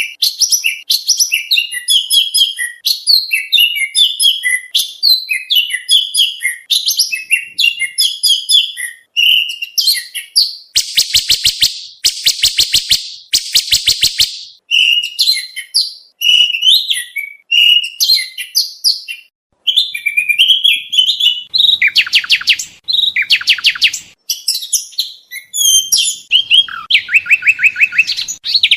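Oriental magpie-robin (kacer) singing a long, varied song of quick chirps and whistles packed with borrowed phrases, broken by fast rattling trills about eleven seconds in and again a little past twenty seconds.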